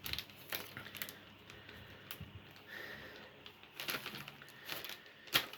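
Light handling noise from plastic desk-fan parts: scattered small clicks and taps, with one sharper click near the end.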